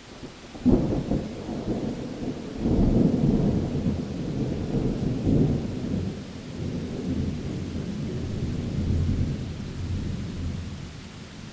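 Thunder: a sharp crack less than a second in, then a long low rolling rumble that swells again a couple of seconds later and fades out near the end, over a steady hiss of rain.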